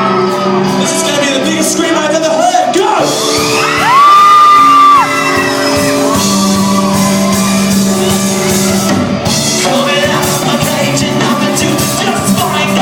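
Live band playing in a hall, with sung vocals and shouts and whoops from the crowd; a loud, high, held cry about four seconds in is the loudest sound.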